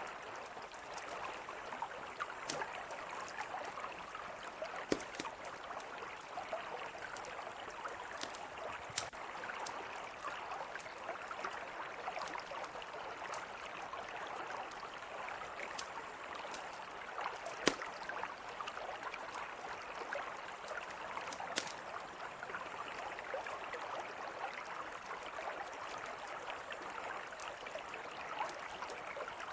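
Mountain river flowing steadily, with a campfire crackling over it in scattered sharp pops; the loudest pops come about five seconds in and again near eighteen seconds.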